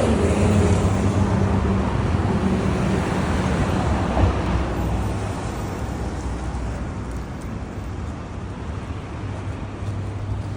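Traffic noise with a vehicle engine's low hum, growing quieter after about four seconds.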